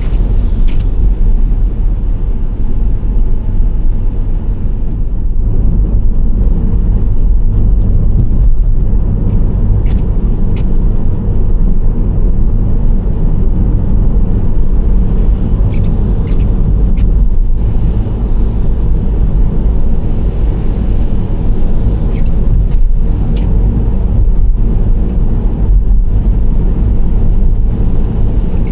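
Nissan Serena C25 minivan driving at a steady pace: a continuous low rumble of road, tyre and engine noise, without much rise or fall.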